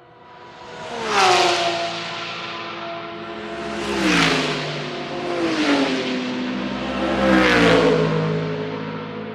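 GT3 race cars passing one after another at speed, four pass-bys about one, four, five and a half and seven and a half seconds in, each engine note dropping in pitch as the car goes by.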